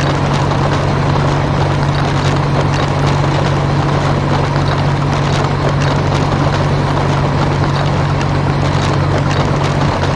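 Heavy machinery sound effect running steadily: a constant low engine-like drone under a dense rattling clatter, starting abruptly just before and holding level.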